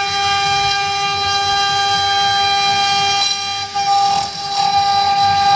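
Senke 4-axis CNC router running: the spindle gives a steady high whine made of several stacked tones, broken by a rougher, noisier stretch about three to four and a half seconds in.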